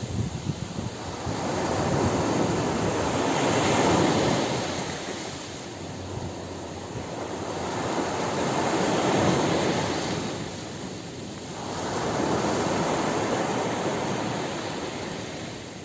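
Ocean surf on a beach: waves breaking and washing back, a steady rushing that swells and falls away about every four to five seconds.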